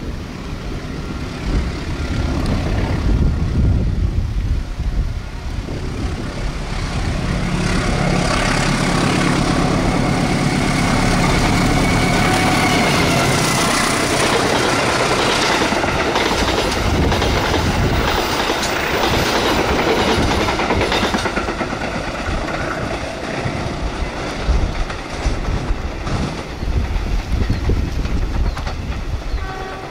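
A diesel locomotive hauling passenger coaches approaches and passes at speed. A deep engine rumble builds first, then gives way to the dense clatter of coach wheels over rail joints and points about halfway through. As the train goes away, the clatter thins into separate wheel clicks.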